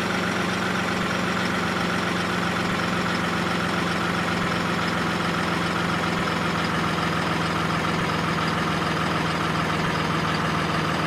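A steady, unchanging engine drone, like an idling engine.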